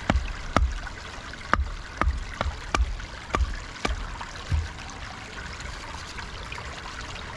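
About ten sharp wooden knocks in the first four and a half seconds as a green stick is split down the centre to make tongs, followed by the steady running of a stream.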